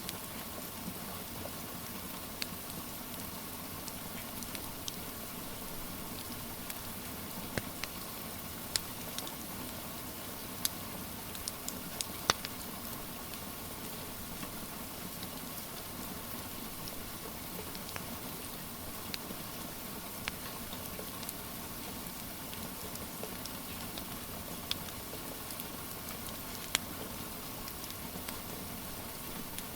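Steady hiss of rain with the scattered sharp pops and crackles of a wood fire, a dozen or more irregular snaps, the loudest about twelve seconds in.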